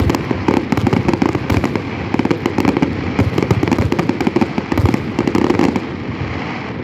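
Fireworks display: a dense, rapid stream of bangs and crackles that thins out about six seconds in, leaving a lower steady noise.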